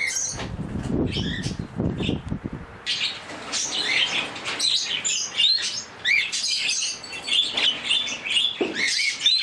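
Small pet parrots (cockatiels, Bourke's parakeets and a budgie) chirping and calling in short, quick rising and falling notes. A low fluttering noise runs under the calls for about the first three seconds.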